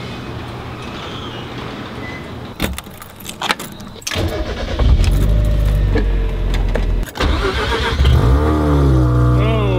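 Car interior: a few clicks and keys jangling, then a car engine starts about four seconds in and runs loudly. After a short break, an engine is revved, its pitch rising and falling.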